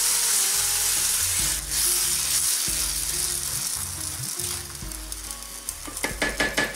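Spelt semolina frying in oil in a pan, a steady high sizzle, while a wooden spatula stirs and turns it. Near the end comes a quick run of sharp scraping clicks as the spatula works against the pan.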